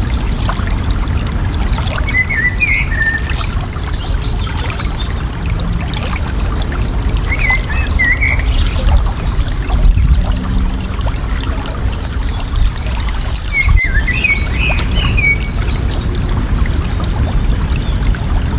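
Flowing water babbling and pouring steadily, with a small bird's short chirping phrases three times over it.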